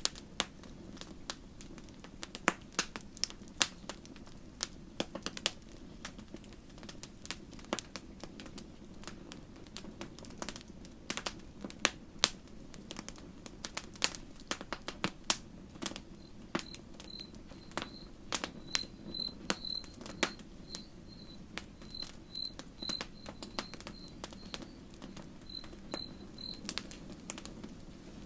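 Wood campfire crackling, with irregular sharp pops and snaps over a low steady rustle of the flames. From about halfway in until near the end, a cricket chirps in an even, high-pitched series.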